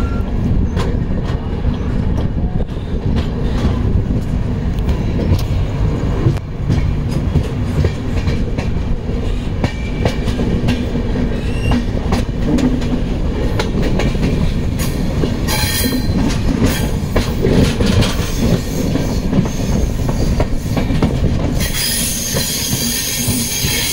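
Passenger train coach running along the rails, heard from its open doorway: a steady heavy rumble with the clicks of wheels over rail joints, and a brighter hiss joining in over the last couple of seconds.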